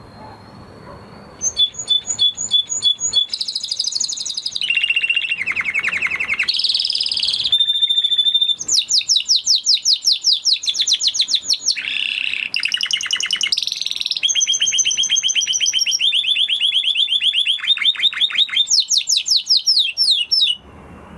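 Canary singing one long, loud song of rapid trills, its phrases shifting in pitch every second or two. The song starts about a second and a half in and stops suddenly just before the end.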